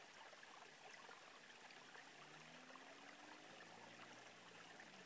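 Faint hiss, then from about two seconds in the distant engine note of a Honda del Sol with a swapped K20A four-cylinder, its pitch rising steadily as the car accelerates.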